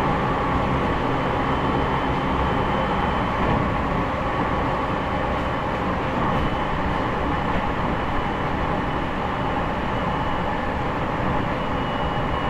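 JR East E501 series EMU running along the line, heard inside motor car MoHa E501-8 with its Toshiba IGBT inverter drive: a steady rumble of wheels on rail with a few faint steady tones over it.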